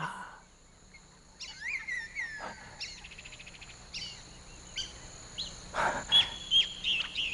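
Birds chirping in short, scattered calls over a steady high-pitched hum, the calls coming more often in the second half.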